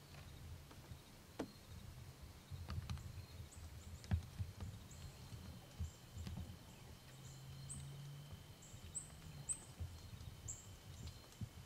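Faint outdoor field ambience: small birds giving short, high, down-slurred chirps that come more often in the second half, over a low rumble with a few sharp clicks. A thin, steady high whine joins about five seconds in.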